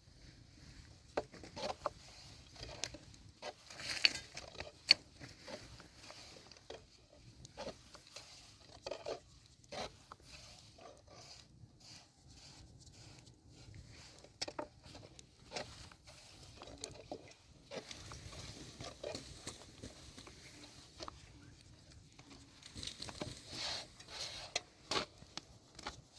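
Irregular light knocks, taps and rustles, with two sharper clicks about four and five seconds in and a busier patch of taps near the end.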